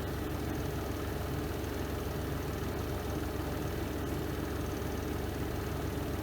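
The spin drum of a Renova semi-automatic twin-tub washing machine spinning during the spin cycle: a steady, even, low hum.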